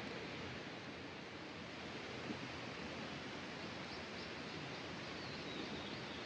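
Steady rush of a flowing river, with a few faint bird chirps in the second half.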